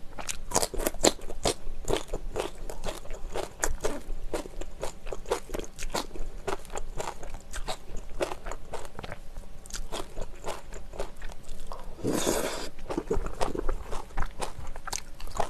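Close-miked chewing and crunching of a spicy mala xiang guo stir-fry with Chinese glass noodles and greens: a quick, uneven run of wet crunches and mouth clicks. One longer rushing sound stands out about twelve seconds in.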